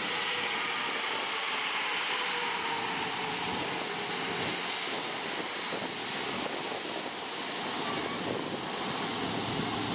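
Jet airliner engines running, heard as a steady rushing noise with a faint whine that sinks slightly in pitch over the first few seconds.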